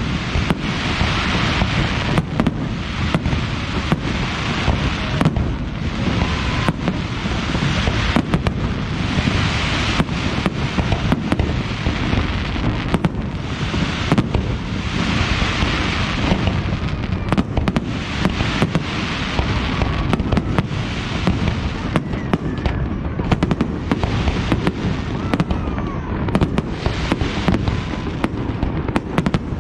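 Fireworks display: a continuous barrage of bangs and booms over steady crackling.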